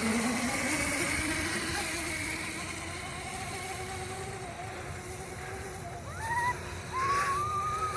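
Electric hub motor of a Razor MX350 electric dirt bike whining as the bike gets going: the pitch rises over the first couple of seconds, then holds steady while it rides. Near the end, high whining calls come in over it.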